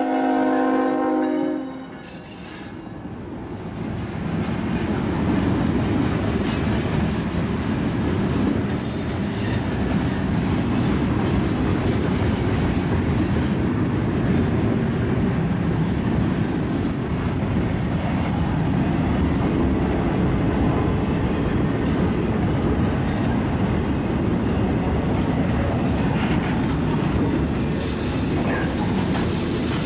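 A freight locomotive's horn sounds a chord that cuts off about a second and a half in. Then a long string of loaded tank cars rolls past close by, with a steady rumble of steel wheels on rail and a few faint, brief wheel squeals.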